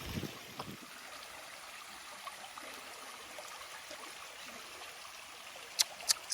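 Small woodland stream trickling steadily, with two sharp clicks near the end.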